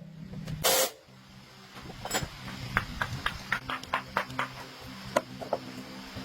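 A short burst of hiss, like spray or blown air, then a series of light, irregular clicks and taps over a low steady hum.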